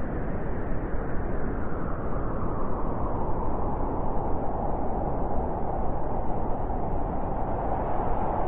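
Blizzard wind blowing as a steady, dense rushing noise, with a slightly higher howl growing stronger in the second half.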